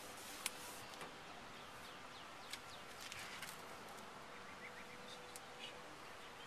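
Faint outdoor ambience with birds chirping now and then over a low steady hum, and a few sharp clicks.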